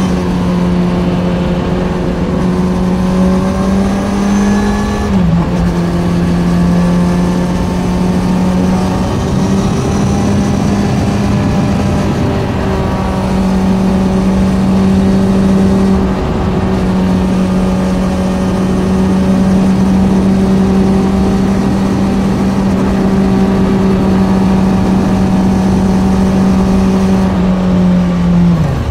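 Kawasaki Z900's inline-four engine through an Ixil SX1 full exhaust, running at a steady mid-range engine speed under way, with wind rushing past. The pitch climbs slightly, then drops abruptly about five seconds in. Near the end it dips briefly and picks back up.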